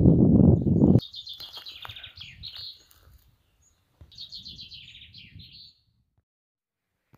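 A loud low rumble, cutting off abruptly about a second in, then a songbird singing two phrases of fast, high, repeated notes.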